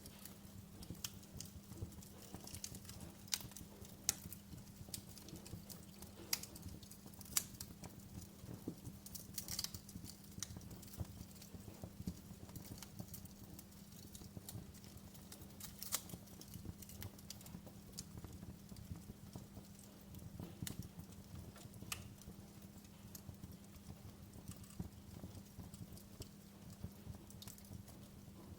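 Wood fire crackling in a fireplace: irregular sharp pops and snaps, some louder than others, over a low steady hum.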